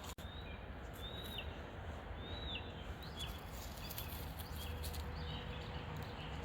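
A bird calling repeatedly with short chirps and downward-arched whistled notes, a few seconds apart, over a steady low background rumble.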